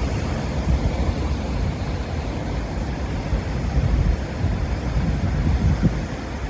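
Sea surf surging against a rocky coast, with wind buffeting the microphone: a steady, gusting low rumble.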